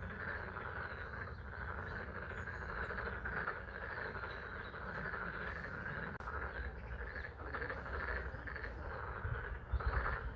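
Chorus of many frogs calling together in a pond, a dense steady trilling mass with rain falling. A few low bumps near the end.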